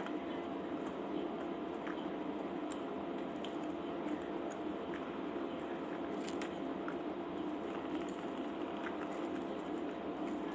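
A person chewing soft cheese tortas close to the microphone: wet, squishy mouth sounds with scattered small clicks over a steady background noise.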